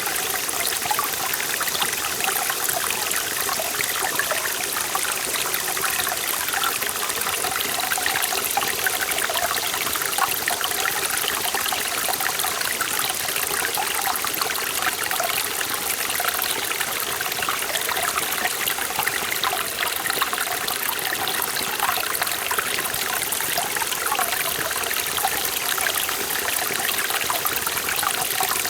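Mountain stream flowing steadily over rocks, a continuous rush with many small splashes and trickles.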